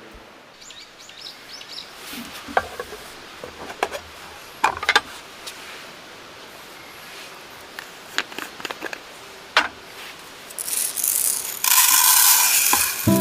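Scattered clicks and knocks of objects being handled, then a loud steady hiss that builds from about ten seconds in.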